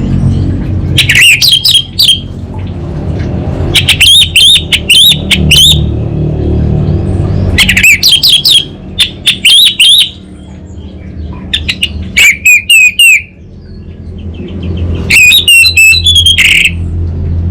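Orange-headed thrush singing vigorously: about five phrases of rapid, high whistled notes, each a second or two long with short pauses between them, over a steady low hum.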